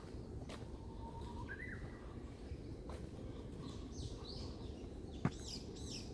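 Wild birds calling: scattered short chirps and curved whistled notes, busier in the second half, over a steady low background rumble. A single sharp click about five seconds in.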